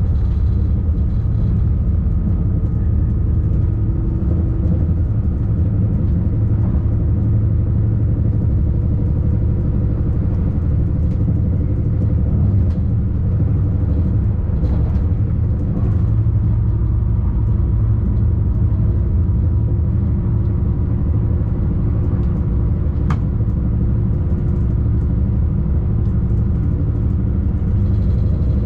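Tilting electric train running along the line, a steady low rumble with a faint steady hum. A single brief sharp click about three-quarters of the way through.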